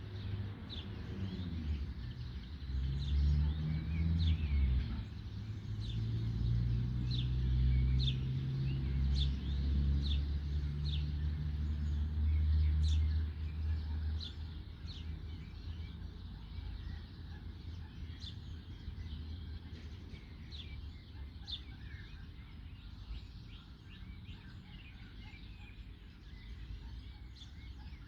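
Songbirds chirping in trees, short high calls repeated throughout. Underneath is a low rumbling drone that swells over the first few seconds and fades out about halfway through.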